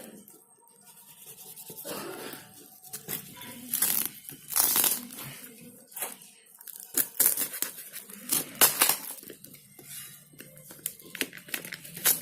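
Packaging being torn open and crinkled by hand, in irregular rustles with sharp clicks and snaps, loudest bursts about four to five seconds in and again near nine seconds.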